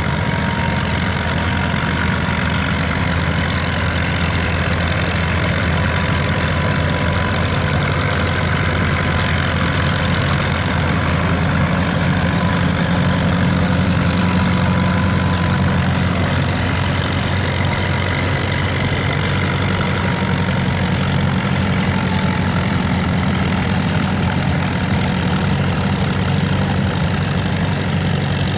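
Antique farm tractor engine running steadily, a little louder about halfway through.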